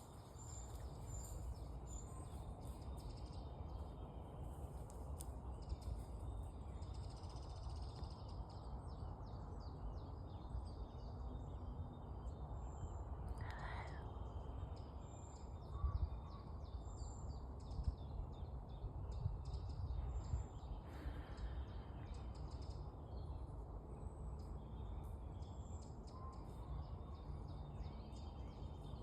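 Wild birds calling in woodland: short high chirps repeated at intervals, with one louder call about fourteen seconds in. Under them runs a steady low rumble.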